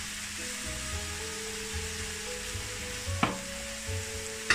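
Mushrooms, peppers and onions sizzling as they fry in a hot pan, stirred with a wooden spatula, with two sharp knocks of the spatula against the pan a little after three seconds in and near the end.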